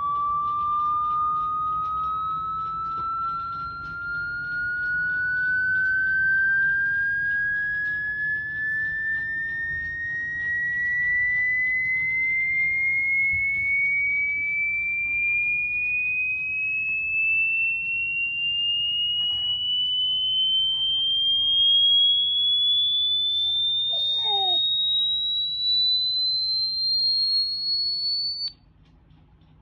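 A pure electronic tone climbs slowly and steadily in pitch, from high to very high, then cuts off suddenly near the end. About three-quarters of the way through, a dog gives a short whine that falls in pitch.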